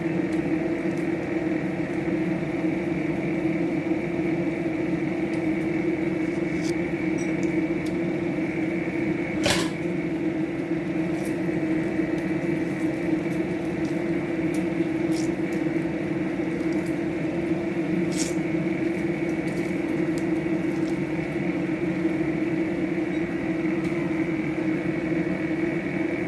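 Steady mechanical hum at an even pitch, like a running appliance motor or fan, with a few light ticks and one sharper click about ten seconds in.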